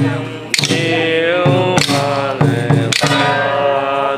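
Ritual chanting for an oil-boiling purification rite: long sung notes that bend in pitch, with a sharp percussion strike about every 1.2 seconds, three times.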